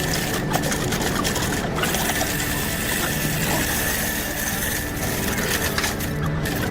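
Continuous workshop clatter and ticking of hand tools and machinery at work, with a faint steady high whine.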